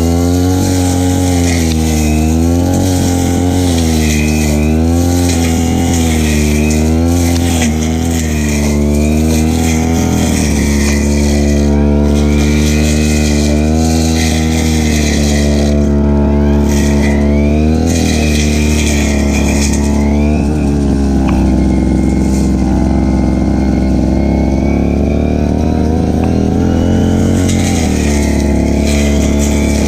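Stihl FR3001 backpack brush cutter's two-stroke engine running under load while cutting grass. Its pitch rises and falls repeatedly at first, then holds steadier with a few brief dips.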